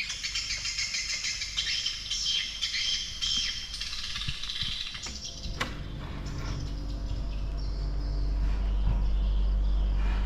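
A flock of swiftlets twittering and chattering in a dense, high, unbirdlike mass of calls, which fades after about five seconds. A click follows, and a steady low hum takes over, growing slightly louder toward the end.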